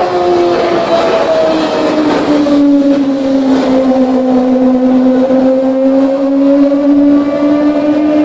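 Kawasaki ZX-25R's 249 cc inline-four running at high revs through an aftermarket exhaust, a loud high-pitched drone. Its pitch dips slightly about two seconds in, then climbs slowly.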